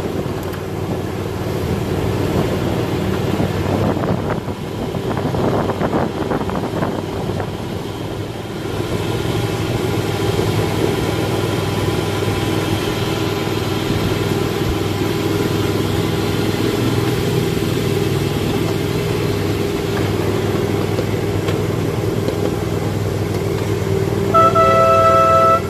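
1/8 scale ride-on miniature train running along the track, a steady mechanical drone with held low tones. Near the end its horn sounds, one sudden, steady, high note.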